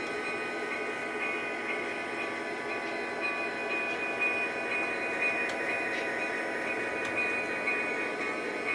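Fine-scale model train running steadily along the track: a continuous hum made of several steady tones, with a few faint clicks.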